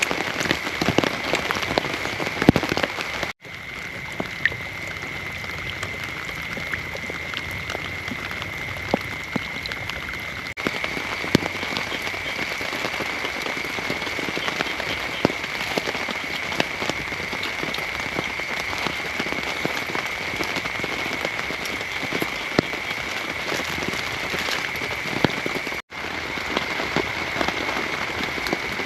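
Heavy rain falling steadily, with many individual drops pattering and ticking on a nearby surface. A steady high-pitched tone sits under the rain. The sound drops out briefly twice.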